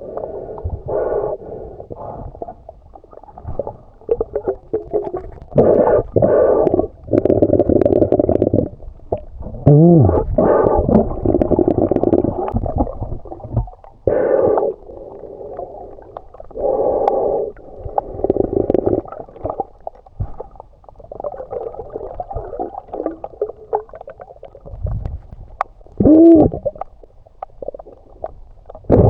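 Water sloshing and gurgling, heard muffled as from under the water, in irregular surges, with a couple of short gliding bubbly tones.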